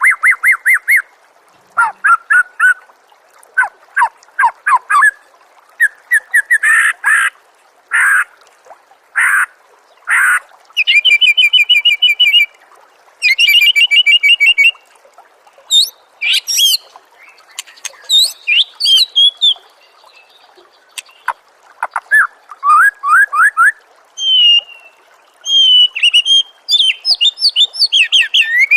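Recorded songbird song for training cage birds: loud, varied phrases of short sweeping whistles and sharp chirps broken by brief pauses, with two runs of fast trilled notes about midway.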